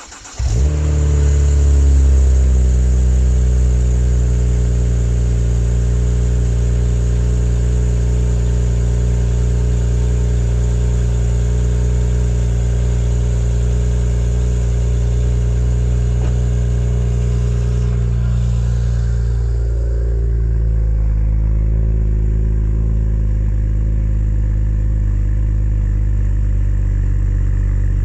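Car engine with an aftermarket Powerflow stainless steel exhaust starting up, briefly flaring, then settling into a steady idle. About twenty seconds in, the idle drops a little lower and carries on.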